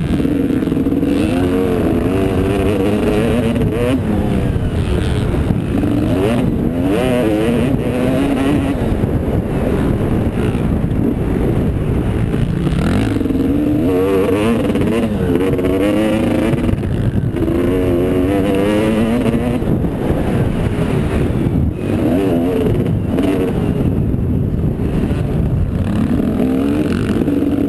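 Motocross motorcycle engines revving up and down again and again, the pitch rising and falling in repeated sweeps over a steady low rumble.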